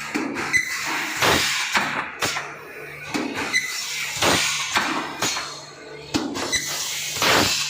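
Erkur ER80 thermoforming machine cycling: repeated knocks and clatter of the mold and sheet-handling mechanism, with a louder burst of air about every three seconds over a low hum.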